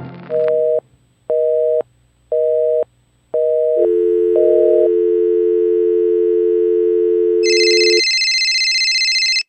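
Landline telephone signal tones: a busy signal beeping on and off about once a second, then a steady dial tone, then a shrill high off-hook warning howl joins in near the end and cuts off abruptly.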